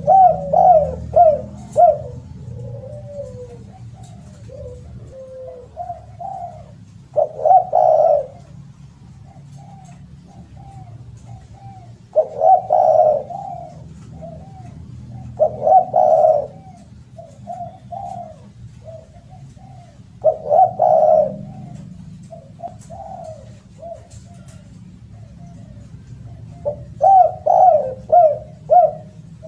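Spotted dove (derkuku) cooing over and over: a loud phrase of several quick coos every few seconds, with softer coos in between, over a steady low hum.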